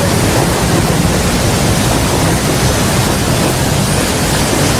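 Typhoon storm noise: a loud, steady rush of strong wind and rain, with wind buffeting the microphone.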